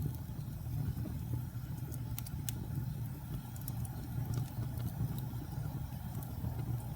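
Wood fire burning: a steady low rumble of flames with scattered sharp crackles and pops, several close together about two seconds in.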